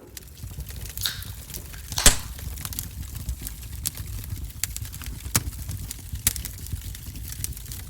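Wood fire crackling in a wood-burning stove: irregular sharp pops and snaps over a low steady rumble, the loudest pop about two seconds in.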